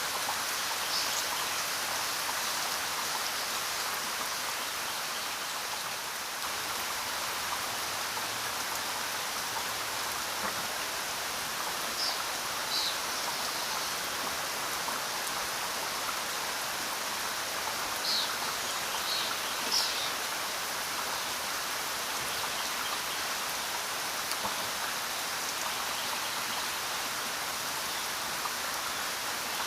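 Steady rainfall, an even hiss of many drops. A few brief high-pitched sounds stand out about a third of the way in and again around two-thirds through.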